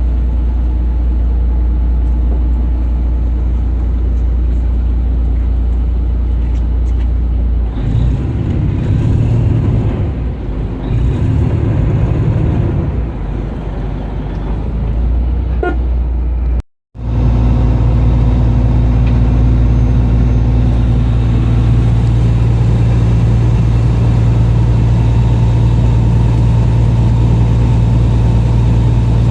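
A heavy engine running steadily with a deep, even hum. The sound gets rougher and more uneven for several seconds in the middle, cuts out for a split second about two-thirds of the way through, then returns steady.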